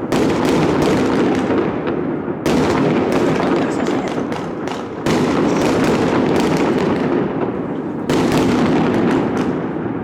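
New Year fireworks going off in a dense, unbroken barrage of overlapping bangs and crackles, the din jumping abruptly louder three times, about every two to three seconds.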